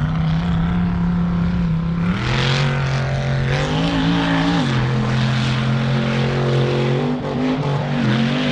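Mud truck engine running hard, its pitch stepping up and down as the revs change, with a rushing noise joining about two seconds in.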